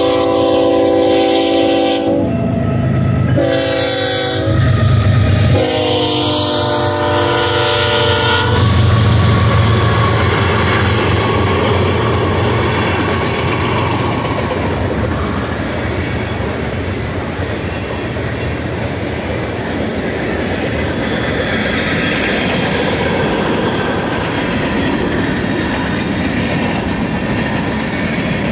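Westbound BNSF manifest freight led by a GE ES44C4 locomotive: its multi-note air horn blows a long blast, a short one and a long one, the end of a grade-crossing warning. Then the locomotives' diesel engines run past, followed by the steady rumble and rush of the freight cars' wheels on the rails.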